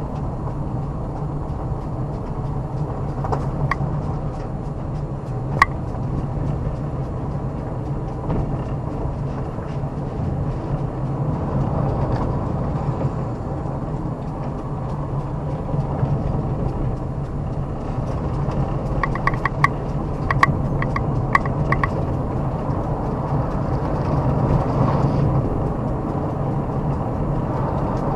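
Car driving steadily, with a constant low engine hum and road noise. Scattered sharp clicks and ticks come a few seconds in, and a quick cluster of them comes about two-thirds of the way through.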